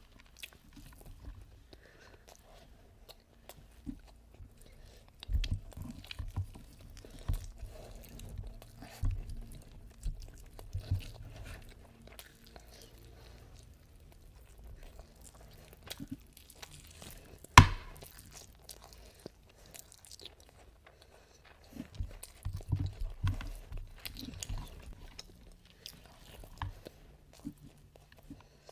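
Close-miked chewing and biting of someone eating mutton biryani and a mutton shank by hand, coming in irregular clusters of soft clicks and thumps. One sharp, loud click stands out about two-thirds of the way through.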